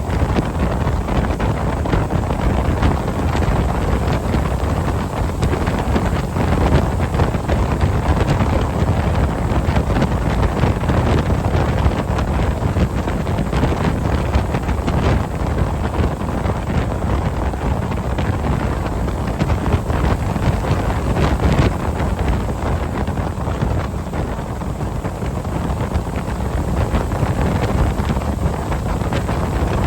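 Steady wind buffeting the microphone on a moving ski tow boat, with the boat's engine running underneath.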